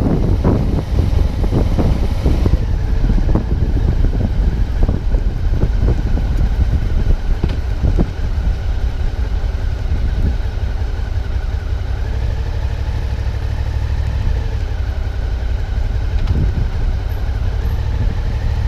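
Suzuki V-Strom 650's V-twin engine running at riding speed, under a heavy low rumble of wind buffeting on the camera microphones. The buffeting is strongest in the first few seconds, then eases to a steadier drone whose pitch rises slightly a couple of times.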